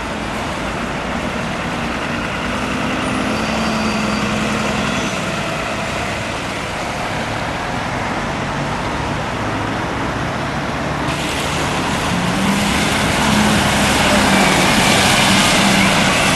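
Road traffic with heavy diesel vehicles running, their engine hum steady. About two-thirds of the way through, a hiss starts suddenly, and it grows louder towards the end.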